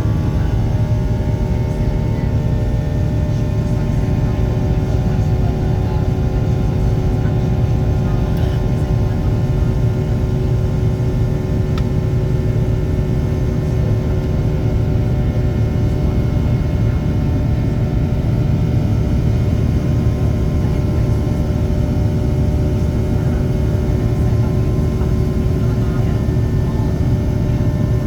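Steady cabin noise of a Boeing 737-800 in flight: a deep rumble of engines and airflow with several steady whining tones from its CFM56 jet engines.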